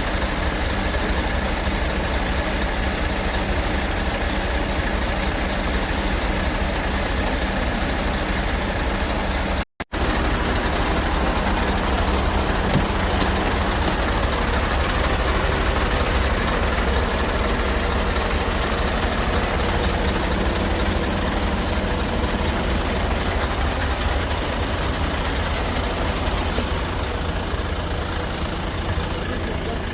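Scania R580's 16-litre V8 diesel engine running steadily, with a low, even note. The sound cuts out for a moment about ten seconds in, then carries on unchanged.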